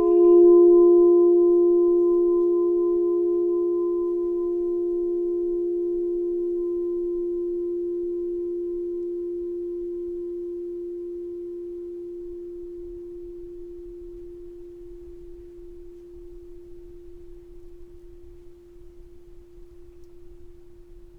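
Singing bowl ringing on one low tone with fainter higher overtones, wavering at first and then slowly fading away over about twenty seconds.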